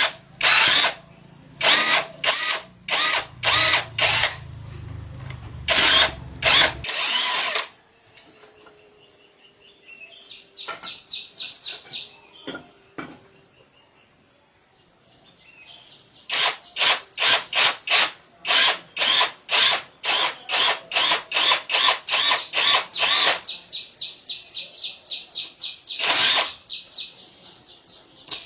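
Repair work with hand tools on machine parts: trains of short, sharp strokes repeated a few times a second, with a pause near the middle broken only by a run of quick light clicks.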